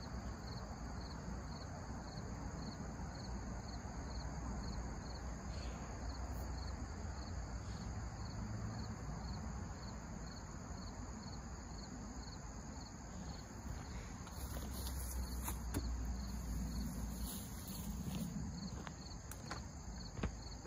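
A cricket chirping steadily, about two short high chirps a second, over a low background hum, with a few faint clicks near the end.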